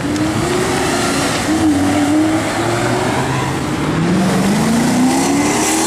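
Car engine accelerating hard. Its pitch holds fairly level at first, then rises steadily over the last two seconds as it revs up.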